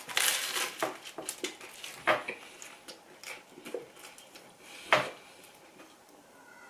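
Close-miked mukbang eating: a quick run of crisp clicks and crunches from chewing and handling food and tableware, densest in the first second, with one sharp click about five seconds in.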